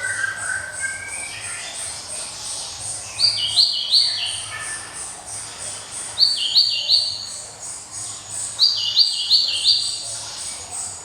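Gelatik songbird singing: three loud, ringing phrases about three seconds apart, each a quick run of four or five clear whistled notes alternating between two pitches. Softer twittering comes near the start, over a faint, steady high chirping.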